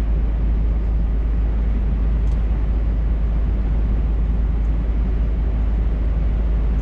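Scania R580 truck with its 16-litre V8 engine driving at a steady speed, a constant deep drone of engine and road noise.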